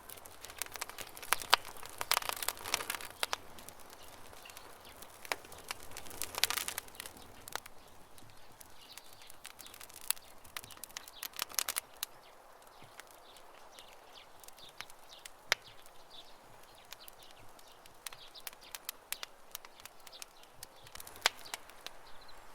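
Campfire crackling and popping, with dense clusters of sharp pops about two and six seconds in, and birds chirping faintly in the background.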